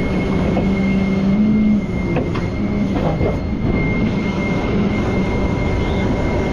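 Rollback tow truck running its hydraulics to work the bed and winch: a steady high hydraulic whine over the engine's hum, which steps up and down in pitch. A few metal knocks come about two to three seconds in.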